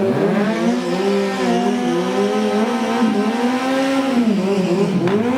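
Racing superbike engine of the under-900cc class revving: it climbs in the first second, is held high for about three seconds, drops back about four and a half seconds in, and starts to rise again at the end.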